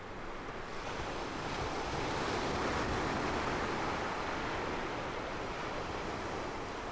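Ocean waves washing on the shore in a steady rush of surf that swells about a second in.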